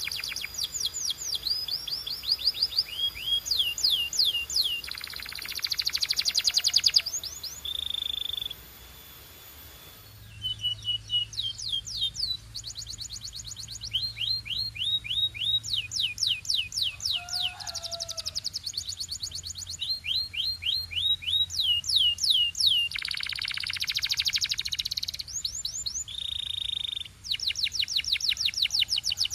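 Domestic canary singing: fast runs of repeated sweeping chirps, dense buzzing rolls and short held whistled notes, with a brief pause about nine seconds in.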